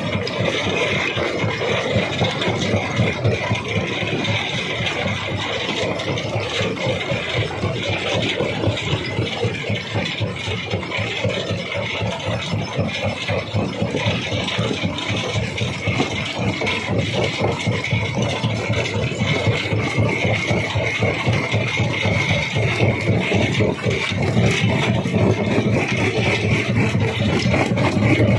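Jaw rock crusher running without a break: a steady engine drone under a dense, continuous rattle and grinding of stone.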